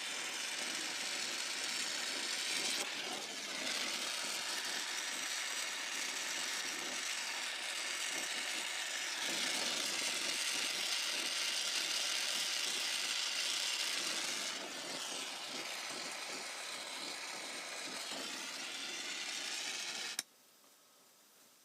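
Brazing torch flame hissing steadily while a copper refrigerant line joint is heated and brazed with silver solder. The flame grows louder for a few seconds in the middle, then cuts off suddenly when the torch is shut off about 20 seconds in.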